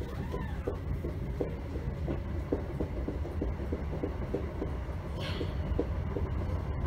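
Class 321 electric multiple unit running between stations, heard from inside the carriage: a steady low rumble with short rattling clicks at about four a second.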